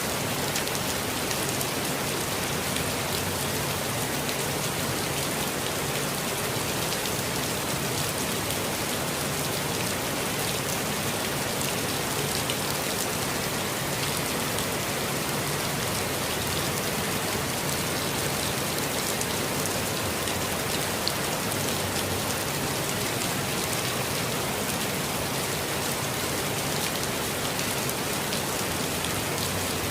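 Steady rain falling on foliage, a constant wash of patter with fine individual drops ticking through it.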